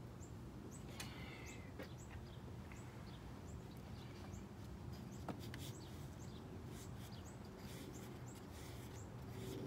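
Small birds chirping faintly: short, high chirps repeated over and over, over a low steady background hum. A few light clicks and knocks sound as the ignition coil pack is handled.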